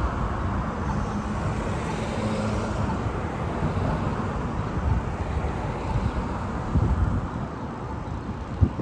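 Road traffic: a motor vehicle's engine and tyre noise passing by, easing off slowly toward the end.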